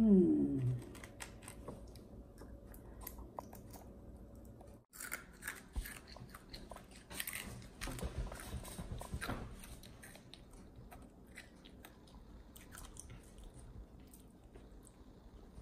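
A small child chewing and crunching cereal and berries, with light clicks and taps of fingers picking food from a plastic plate, busiest from about five to ten seconds in. A short voice sound at the very start.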